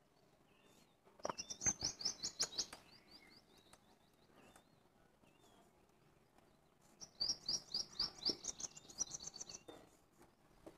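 A small songbird singing faintly twice, each song a quick run of a dozen or so high, downward-sliding notes, with a few single chirps in between. Faint taps of a marker writing on a whiteboard sound along with the songs.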